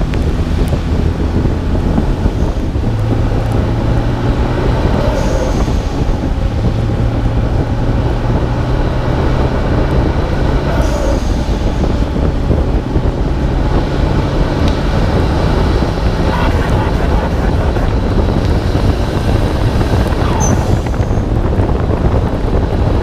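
Nissan Skyline R32 GT-R's twin-turbo straight-six (RB26DETT) driving under way, heard from the bonnet: a steady engine drone that holds and then shifts with the throttle, under a constant rush of wind on the microphone and hiss from tyres on wet road.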